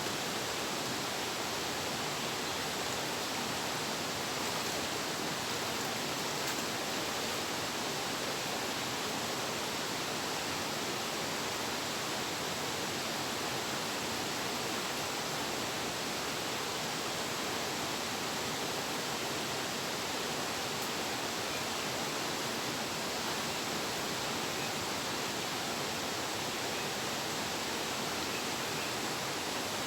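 Steady rushing of nearby flowing water, an even hiss with no breaks.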